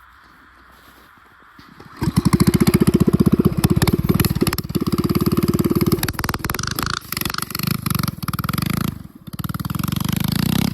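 Mini bike's small engine starts up abruptly about two seconds in and runs with a fast putter. It revs up and down unevenly, dropping off briefly twice before picking up again near the end.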